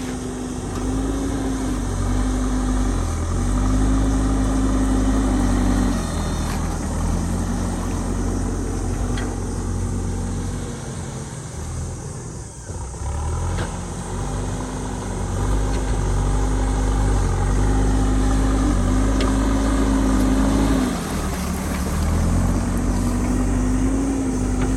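JCB ecoXcellence backhoe loader's diesel engine working under load, its engine speed rising and falling repeatedly as the machine digs. It eases off for a couple of seconds about halfway through and briefly again near the end.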